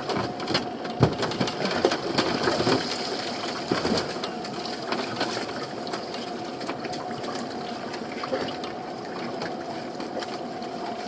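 Small fishing boat's motor running steadily with a constant whine, while pots and catch are handled with a clatter of clicks and knocks, busiest in the first few seconds.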